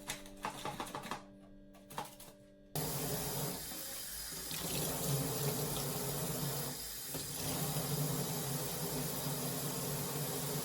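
Water running steadily from a tap into a sink, starting abruptly about three seconds in after the end of some background music.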